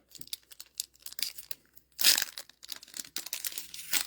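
Trading-card booster pack wrapper crinkling as it is handled, a run of short crackles with a louder rustle about two seconds in.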